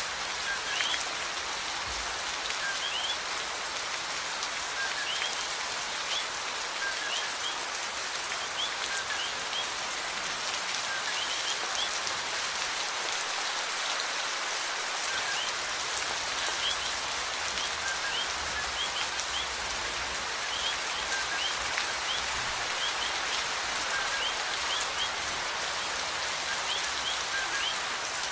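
Steady rain falling, an even hiss, with short high chirps scattered through it.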